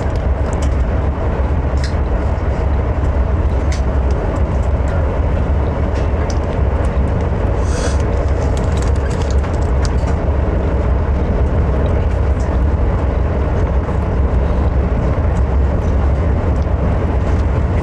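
Steady low rumble of a moving vehicle heard from inside, with scattered light clicks and rattles.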